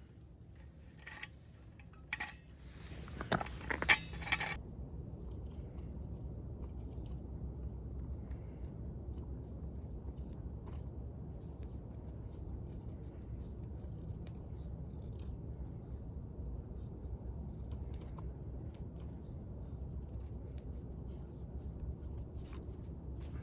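Several quick scraping strikes, typical of a ferro-rod fire starter being struck, in the first four or five seconds. After that comes a steady low rushing noise with scattered small crackles and clicks.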